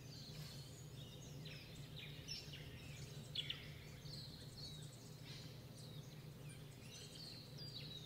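Faint birds chirping, short scattered calls, over a steady low hum.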